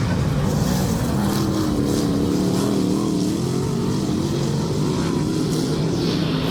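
Dirt-track race car engines running on the oval, a steady drone whose pitch wavers up and down as the cars circle.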